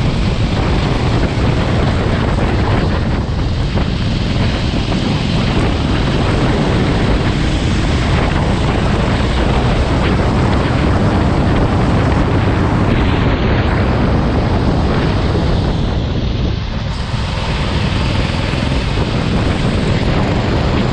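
Go-kart engine running at speed with heavy wind buffeting on the microphone, a steady, dense noise whose level dips briefly about three-quarters of the way through.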